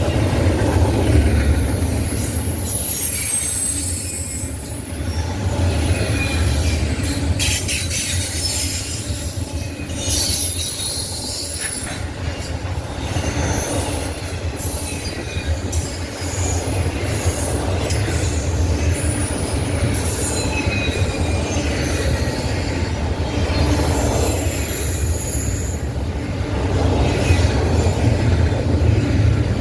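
Norfolk Southern freight train rolling past with a steady low rumble, its wheels squealing on and off in high thin tones, with scattered clicks from the wheels over the rail joints.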